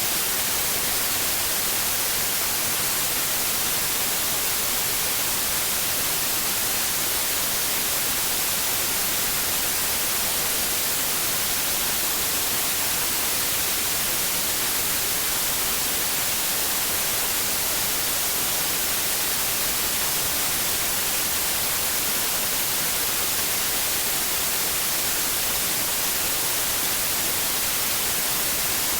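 Steady white noise, an even hiss heaviest in the treble, with no change from start to end.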